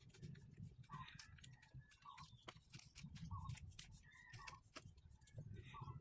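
Faint clucking of a chicken: short calls about once a second, mixed with light clicks and taps.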